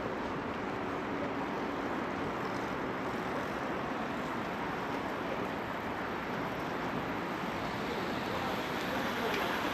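Steady hum of distant road traffic, an even wash of noise with no distinct events.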